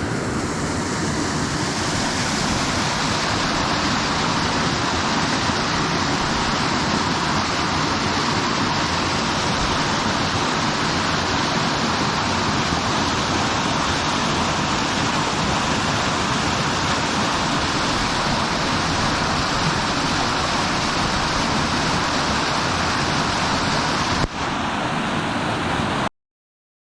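Waterfall rushing steadily, a loud even wash of falling water. There is a brief break about 24 seconds in, after which the water continues a little longer and then stops abruptly.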